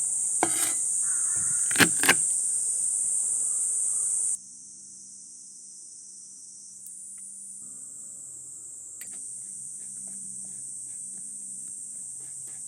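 Steady, high-pitched chorus of summer insects, with a few sharp clicks in the first two seconds. It drops abruptly to a quieter level about four seconds in and carries on.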